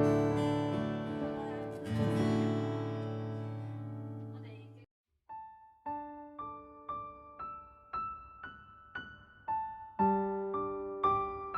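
The band's last chord, with strummed acoustic guitar, rings out and fades to a brief silence. About five seconds in, a keyboard starts an intro of single piano notes, roughly two a second, opening the next song.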